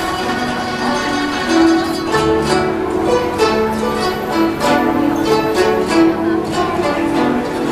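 A guzheng ensemble playing: many Chinese zithers plucked together in a dense, quick run of notes.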